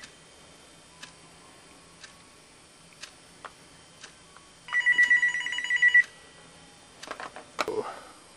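Telephone ringing with an electronic trill: one ring of about a second and a half about five seconds in. A few clicks and knocks follow near the end.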